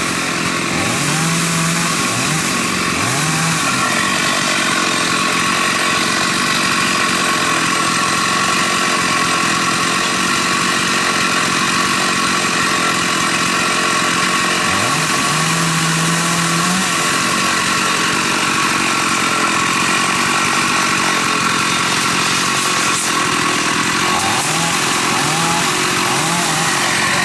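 Chainsaw running steadily, its pitch sweeping upward a few times: near the start, about midway and near the end.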